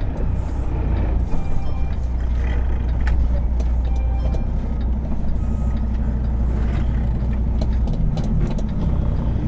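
Semi truck's diesel engine running steadily at low speed in the cab, with a few faint ticks and rattles, as the truck creeps through a tight exit.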